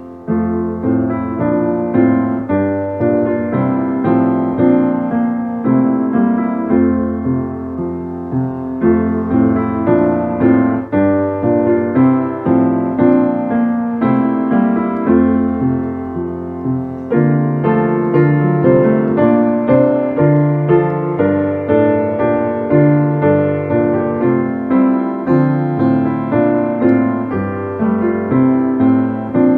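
Piano or electric piano playing a steady, flowing piece of hymn-like music, with notes struck in an even rhythm throughout.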